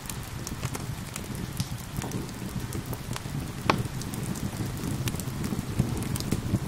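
Steady rain falling, mixed with a crackling wood fire: many small sharp crackles and one louder pop a little past halfway.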